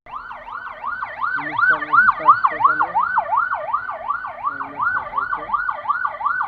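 Police siren in a fast yelp, its pitch sweeping up and down about three to four times a second. It starts suddenly and is loud.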